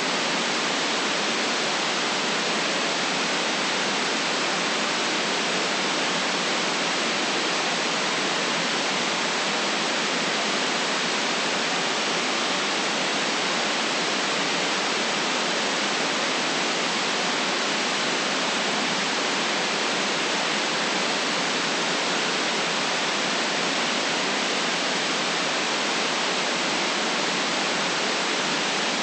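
Steady white noise, an even hiss that never changes in level or character.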